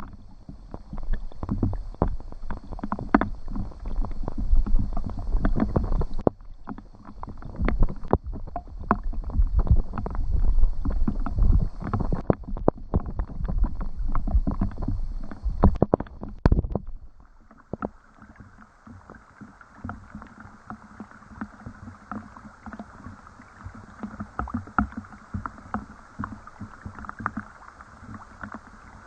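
Rain and water sounds: a dense, close spattering and splashing over a low rumble. A little after halfway it changes abruptly to a softer, steady rain patter.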